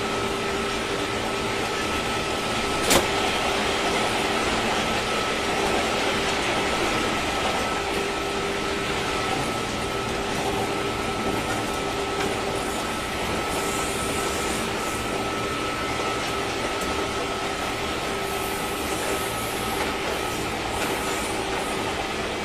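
Running sound inside a JR 201 series electric train motor car at speed: steady wheel and track noise with a steady whine from the drive equipment. A single sharp click comes about three seconds in.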